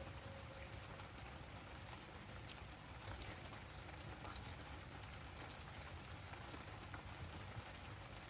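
Faint outdoor river ambience: a low steady rumble with scattered light ticks, and a few short, high chirps about three and five and a half seconds in.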